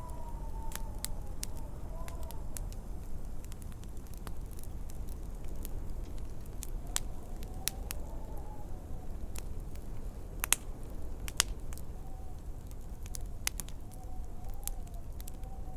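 Wood fire crackling in a fireplace, with scattered sharp pops, two louder ones a little after the middle, over a steady low rumble of wind. A faint wavering wind howl rises and falls at the start, again in the middle and near the end.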